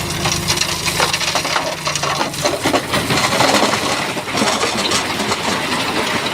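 Stone and rock clattering and crunching as a Shantui bulldozer's blade pushes it, a dense run of sharp knocks and cracks. The dozer's diesel engine hums underneath during the first couple of seconds, then fades.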